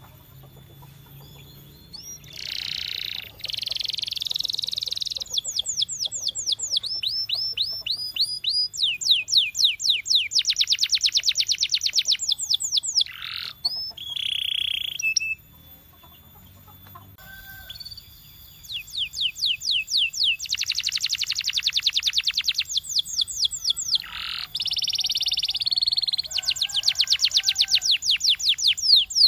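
Domestic canary singing: long rolls of fast, evenly repeated high notes alternating with sweeping whistled phrases, with a brief lull about halfway through.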